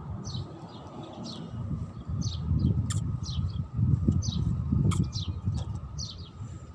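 Small birds chirping repeatedly in short falling chirps, over the louder uneven scuffing of shoes stepping on gritty ground, with a couple of sharp clicks.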